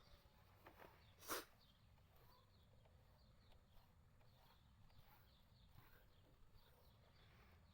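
Near silence with a faint background, broken once about a second in by a short sharp knock, with a few faint small clicks.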